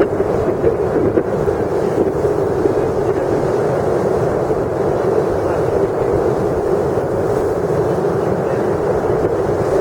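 Stormy sea surf under steady, heavy wind noise on the microphone, a continuous rushing sound with no breaks.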